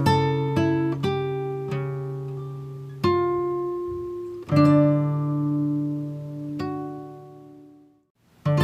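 Background music on a plucked acoustic guitar: single notes and chords ring out and die away. About three seconds in and again about four and a half seconds in, a new chord is struck, and the second one fades slowly to a brief silence before the playing starts again near the end.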